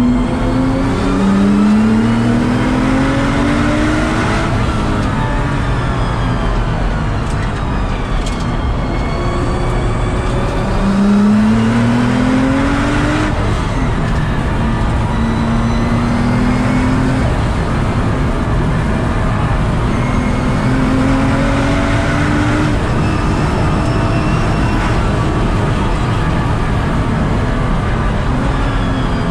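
Nissan GT-R R35's twin-turbo V6 accelerating hard, heard from inside the car: the engine note climbs in long sweeps, steeply twice, each ending in a sudden drop as it shifts up, with steadier stretches between.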